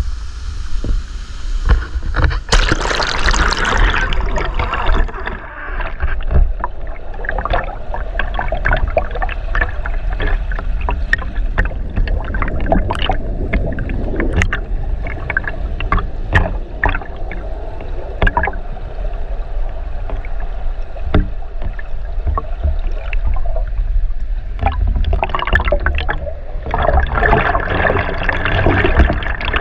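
Water sloshing and gurgling around a GoPro in its waterproof housing, held at and under the surface of a river: a heavy low rumble with many small scattered clicks. The sound goes muffled for most of the stretch and opens up again near the end, as the camera dips under and comes back out.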